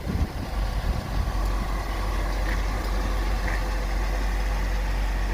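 2003 GMC box truck's engine idling steadily.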